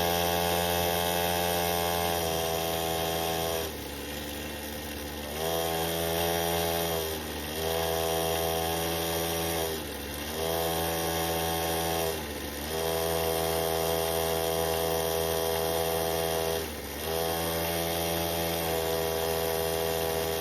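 Mini bike engine running as it is ridden, its note dropping as the throttle is eased off about five times and rising again as it picks back up.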